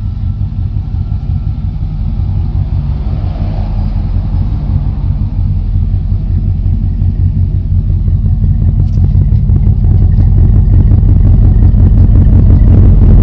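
1990 Chevrolet 2500 pickup's engine running at a steady speed, growing steadily louder over the whole stretch.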